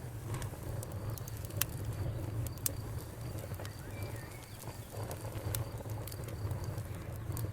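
Fire crackling: a steady low rumble under scattered sharp pops and snaps.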